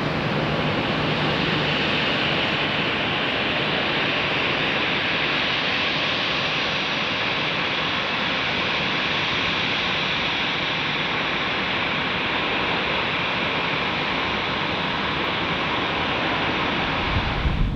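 Jet airliner engines as a steady, loud rush of noise with no clear tone. It breaks off just before the end, giving way to wind buffeting the microphone.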